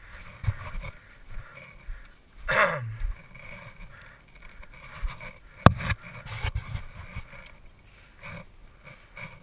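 Scattered low thumps and rustling of a player moving with gear, with a falling swish about two and a half seconds in and one sharp click a little past halfway.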